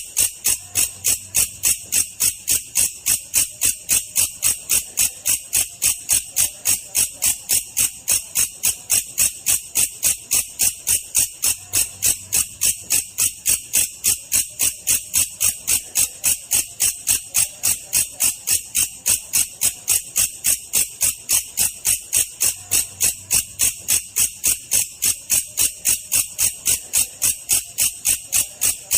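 Belalang kecek katydid calling in a slowed-down recording: an even, unbroken run of rapid high-pitched chirps.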